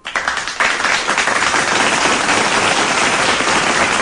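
Crowd applause that starts suddenly, fills out within about half a second and then goes on steady and loud.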